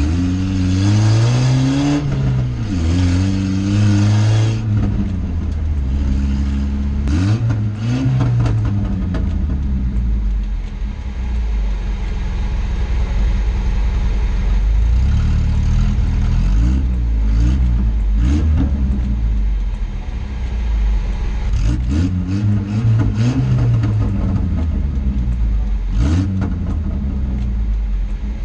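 Cheap old Volvo's engine accelerating hard, its pitch climbing and then dropping back with each gear change, over and over, with a few sharp clatters in between.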